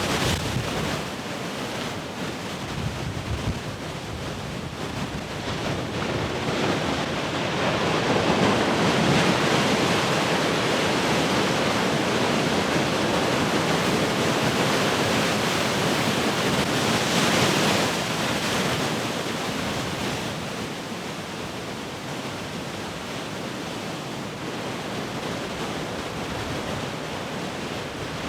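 Large ocean waves breaking as heavy surf, a continuous rushing wash. It swells up after about six seconds, stays loud for about ten seconds as a big wave crashes and runs in, then eases off.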